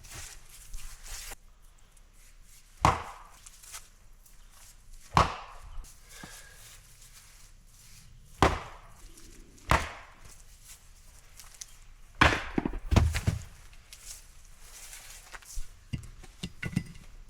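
Axe splitting firewood logs: about six sharp chopping strikes spaced a few seconds apart, with lighter knocks of wood near the end.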